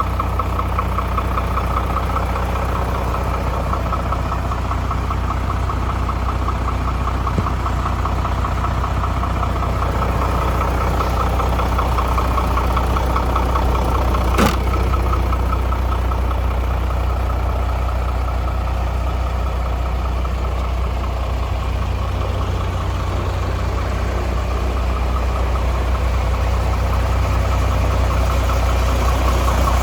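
Iveco EuroTrakker 190E38W tipper truck's diesel engine idling steadily with a fine, rapid pulsing beat. One sharp click comes about halfway through.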